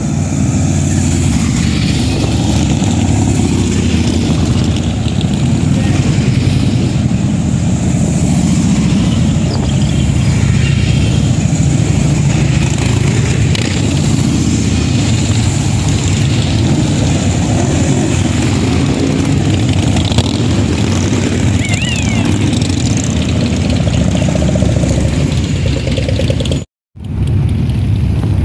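Many Harley-Davidson motorcycles riding past together, their V-twin engines making a continuous rumble. It cuts out abruptly for a moment near the end.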